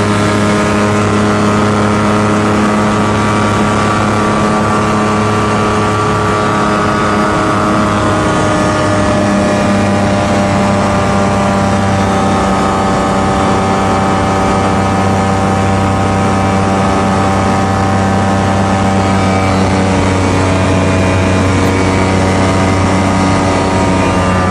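Light aircraft piston engine and propeller running steadily at a loud drone, with the engine speed easing down about eight seconds in and changing again near the end.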